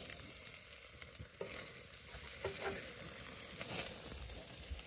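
Hamburger patties sizzling on a grill, a steady crackling hiss of fat spitting as they cook with cheese melting on top.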